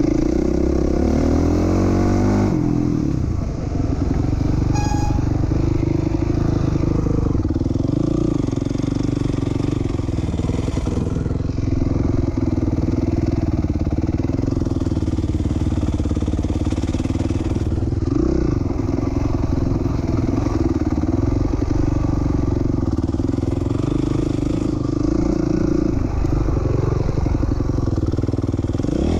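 2007 Honda CRF450R's single-cylinder four-stroke engine running hard under throttle, rising in pitch for the first couple of seconds, then held at a steady pitch with several brief dips as the throttle is rolled off and back on.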